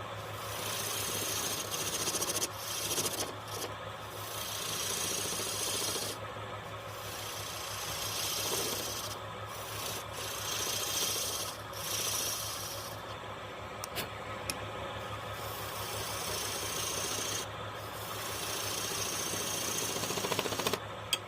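Wood being rubbed with an abrasive in strokes a second or two long, broken by short pauses, over the steady low hum of a running machine.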